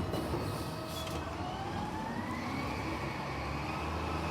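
Garbage truck engine running with a steady low rumble, while a whine rises smoothly in pitch over about two seconds as the truck revs up.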